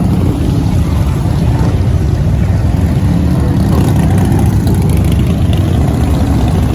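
Motorcycle engines rumbling steadily on a crowded street, a dense low drone with no break.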